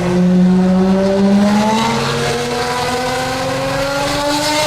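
Mercedes V12 engine with an aftermarket exhaust held at high revs, its pitch climbing slowly and steadily, then easing off near the end.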